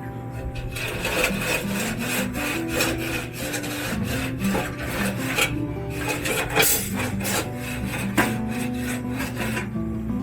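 Repeated scraping strokes of a plastering tool worked across a concrete-and-plaster wall, starting just under a second in and stopping near the end, over quiet guitar music.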